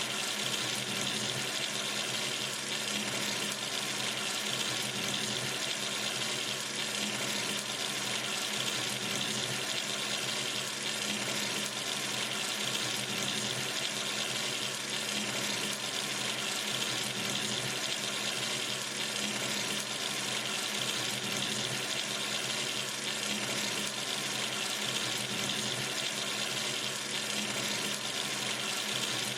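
Water running steadily from a sink tap into the basin, an even, unbroken splashing hiss.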